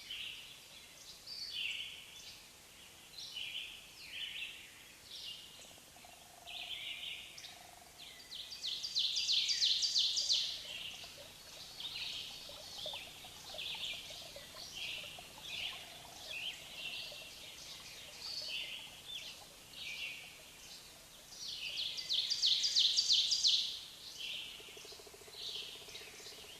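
Songbirds singing: short chirped phrases repeating every second or so, with two longer, louder rapid trills about nine and twenty-two seconds in.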